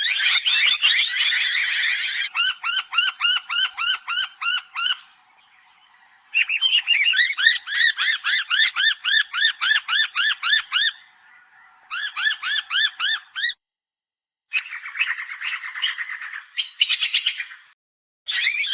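Noisy Miners calling in several bouts of fast, harsh, repeated notes, a few notes a second, with short pauses between the bouts.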